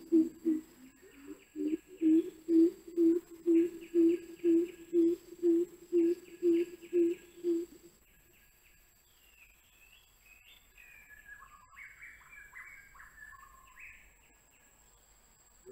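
Outdoor bird calls. A deep hooting call repeats steadily about twice a second and stops about halfway through, followed by fainter, higher chirping calls of other birds.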